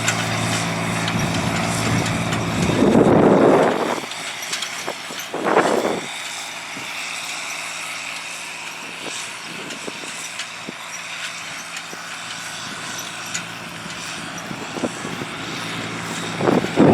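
John Deere 8300 tractor's diesel engine running steadily, fading off about four seconds in, with several loud short rushes of noise along the way.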